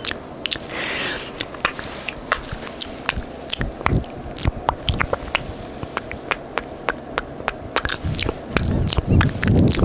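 Close-miked ASMR mouth sounds: wet, sticky lip and tongue clicks and kisses in a rapid, irregular series, the 'sticky kiss paint' trigger. A louder, fuller stretch of mouth noise comes in near the end.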